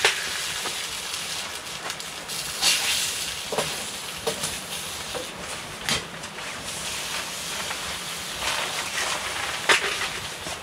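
Bread and eggs sizzling in a frying pan: a steady hiss with a few sharp pops scattered through it.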